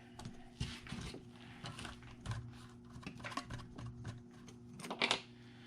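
Small plastic and metal parts clicking and rattling in irregular bursts as the disc brake assembly on an RC truck's front wheel hub is pulled apart by hand, with a slightly louder clatter about five seconds in.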